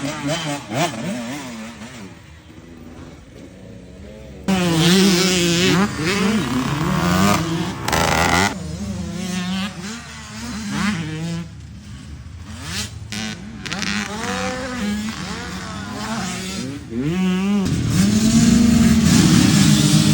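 Dirt bike engine being ridden hard, its pitch climbing and dropping again and again with throttle and gear changes. It eases off for a couple of seconds, comes back suddenly and loud about four and a half seconds in, and is held steady and loud near the end.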